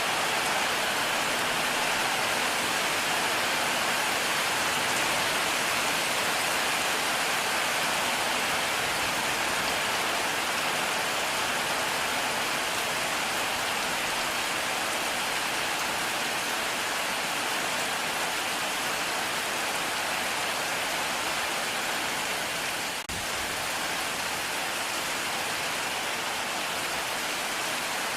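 Heavy rain falling steadily, a dense even hiss of downpour with no thunder heard; the level dips for a moment about 23 seconds in.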